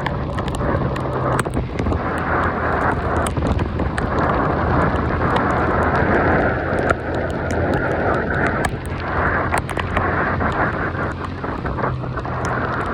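Heavy rain falling on and around the phone, drops striking close to its microphone as a dense steady rush of noise with many sharp ticks.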